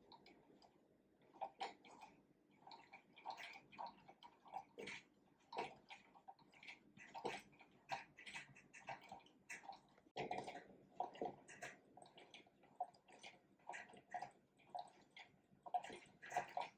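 Faint, irregular light clicks and taps, a few a second, some louder than others.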